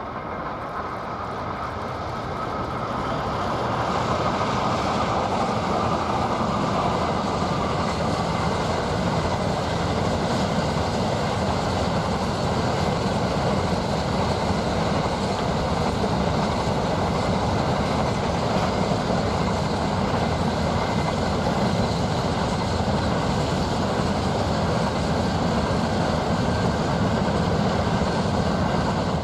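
Diesel locomotives hauling an empty grain train past, engines running and the empty wagons rolling and rattling on the rails. The sound builds over the first few seconds, then holds as a steady rumble as the train goes by, and cuts off suddenly at the end.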